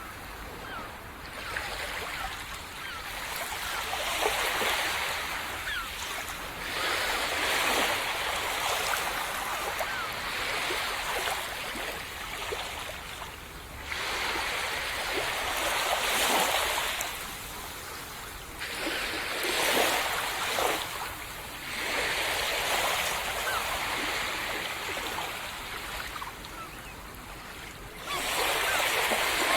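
Small sea waves breaking on a sandy beach and washing up the shore, in repeated surges of hiss a few seconds apart, with fine fizzing of foam and draining water between them.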